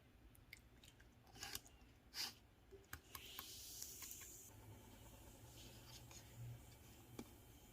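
Slime being pressed and stretched by hand: faint sticky clicks and small pops in the first few seconds, then a brief soft hiss of air before it goes quieter.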